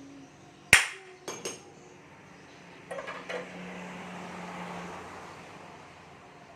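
Metal struck hard three times in quick succession, as by a hammer on a metal part, then a few lighter metallic clinks, followed by a softer steady noise with a low hum for about a second and a half.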